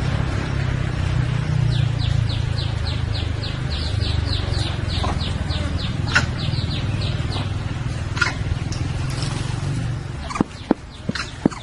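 A motor vehicle's engine runs with a low rumble that stops about ten seconds in. A bird calls a fast run of short, high, falling chirps, about five a second, over the middle of the rumble. Near the end there are sharp clicks about three a second.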